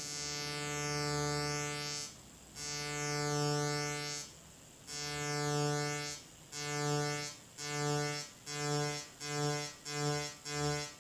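Future Sound Systems Brunswick DIY analogue synthesizer sounding one steady low note, its LFO sweeping the pulse width so the tone's colour moves back and forth. The note swells and cuts out again and again, the pulses coming faster and faster towards the end.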